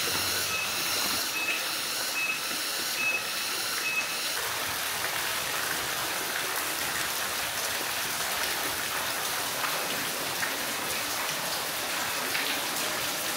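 Steady hiss of rain and rushing stream water in tropical forest. During the first four seconds a short high chirp repeats about once a second.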